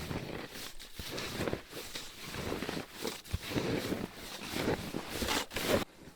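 Footsteps crunching through deep snow in uneven strides, cutting off abruptly near the end.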